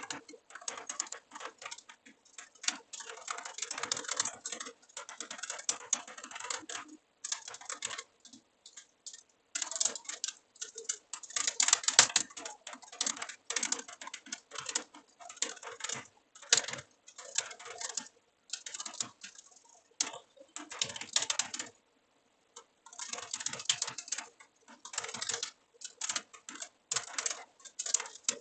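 Typing on a computer keyboard: runs of rapid keystrokes broken by short pauses, one lasting about a second some three-quarters of the way through.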